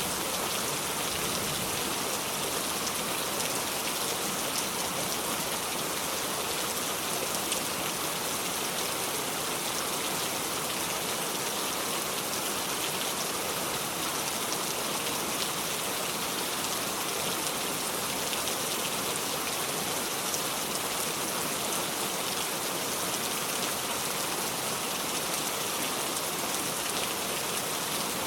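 Steady heavy rain falling, an even hiss of many drops with fine pattering ticks and no thunder.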